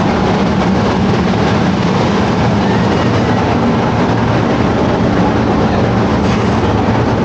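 Trenitalia Rock electric double-deck train standing at the platform with a steady loud hum and rush of noise from the train.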